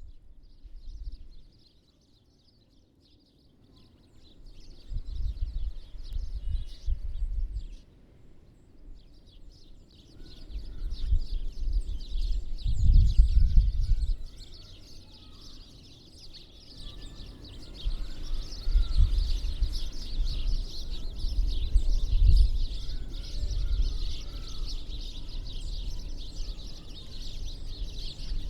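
Many small birds chirping together at winter feeders, the chorus thinning out about two seconds in and building again from about ten seconds in. Low rumbles come and go underneath and are the loudest sound, strongest around thirteen seconds in.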